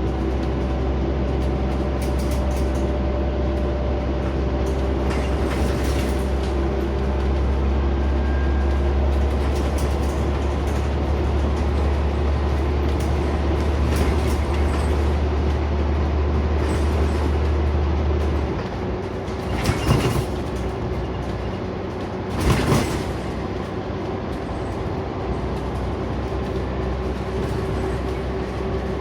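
Interior sound of a Scania CN94UB Omnicity single-deck bus under way: the engine runs with a steady low drone that falls away about two-thirds of the way through. Two sharp knocks follow a few seconds apart.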